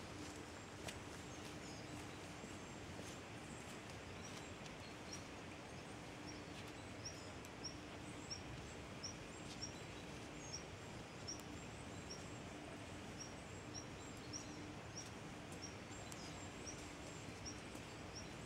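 Faint outdoor forest ambience, a soft steady hiss with a low hum, over which a small bird gives a short, high call again and again, about twice a second, from a few seconds in until near the end.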